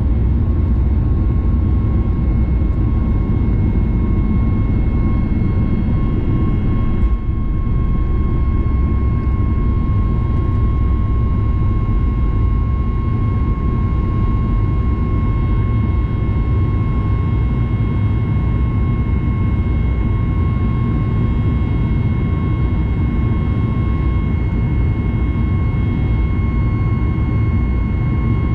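Cabin noise of a Boeing 737 MAX 9 airliner, its CFM LEAP-1B engines running steadily: a deep, even rumble with a steady whine on top, dipping briefly about seven seconds in.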